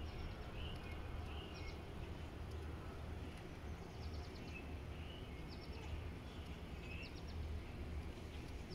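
Outdoor garden ambience: small birds chirping faintly every second or so over a low, steady rumble.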